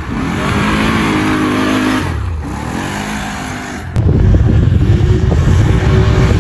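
Off-road vehicle engine revving: it climbs in pitch, eases off and climbs again. About four seconds in, a louder, rougher engine sound with a steady droning tone cuts in abruptly.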